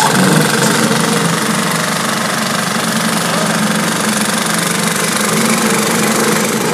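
Engine of a pothole-repair machine running steadily at a constant speed, with a dense steady hiss over the engine hum.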